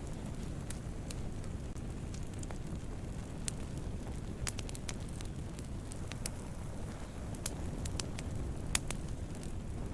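Wood campfire burning: a steady low rumble of flames with irregular sharp crackles and pops, one louder pop near the end.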